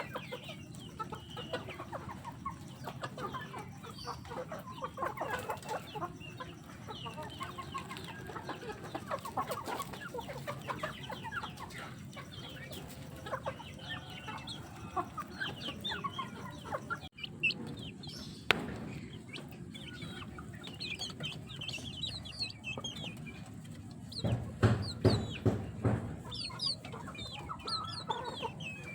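Backyard chickens clucking and calling continually in short, overlapping calls, with a louder run of calls near the end.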